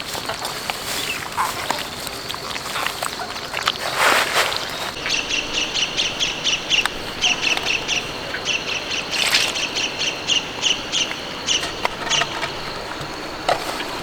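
A bird calling over and over in short high chirps, about three a second, with a short break partway through. A brief noisy burst comes just before the calls begin.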